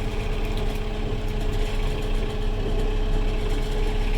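Kubota 70-horsepower diesel tractor engine running steadily, an even hum.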